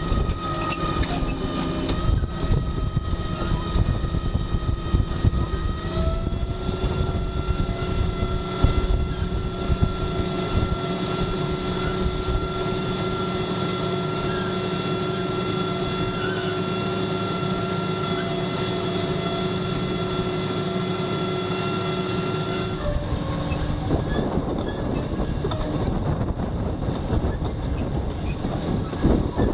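A vehicle driving across a field: engine running with a steady whine over a rumble and rattle. The whine steps slightly higher about six seconds in and stops near the end, leaving the rumble.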